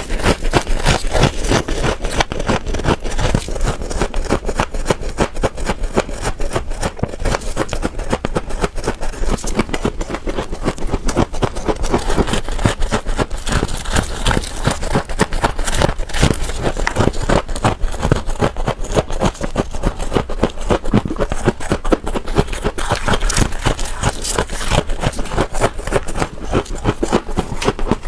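Refrigerator frost ice being scraped and crunched up close: a dense, unbroken run of crisp crackling clicks.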